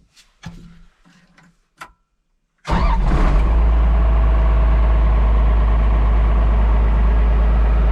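A few faint knocks and clicks, then, after a brief gap, a Komatsu bulldozer's diesel engine running steadily and loudly from about three seconds in, warming up.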